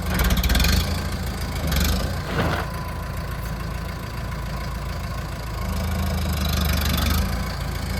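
Kubota M108S tractor's diesel engine running at idle, a steady low drone that swells louder briefly near the start and again for a second or so about six seconds in.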